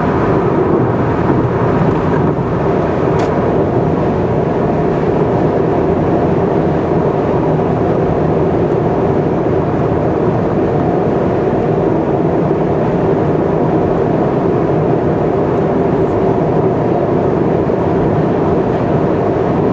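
A car cruising at expressway speed: steady road and engine noise with no change in pace, and a faint tick or two.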